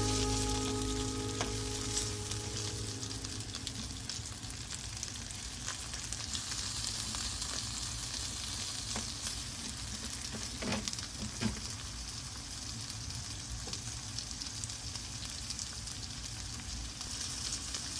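Food frying in a pan with a steady sizzle, with two light knocks a little before halfway. Background music fades out at the start.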